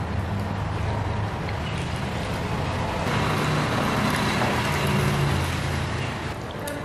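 A motor vehicle's engine running, a steady low hum with noise that swells in the middle and eases off near the end.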